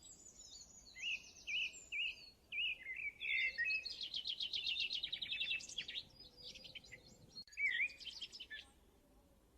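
A songbird singing in quick, varied phrases of high chirps, slurred notes and rapid trills, the song breaking off shortly before the end.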